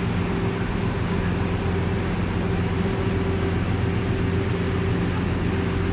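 Boat engine running steadily: a constant low hum under an even rushing noise.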